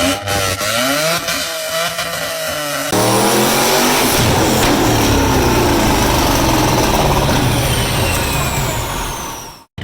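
Performance car engines revving through the exhaust, in two cuts: about three seconds of revving with the pitch swinging up and down, then a louder run accelerating with the pitch climbing and falling, which cuts off suddenly near the end.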